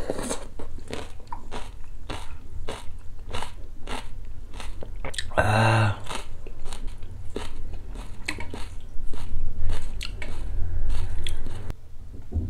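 Close-up chewing and crunching of a mouthful of muk-sabal, cold acorn-jelly soup topped with seaweed flakes, with many quick crisp clicks of the food between the teeth. About halfway through there is one short hummed "mm" of about half a second.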